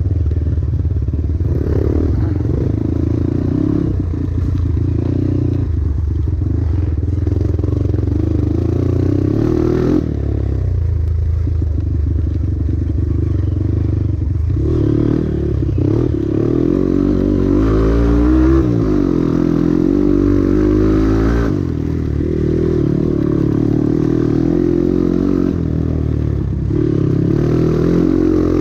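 Trail motorcycle engine running as the bike is ridden off-road, the throttle opening and closing so the engine note rises and falls, with clattering and scraping from the bike over rough ground.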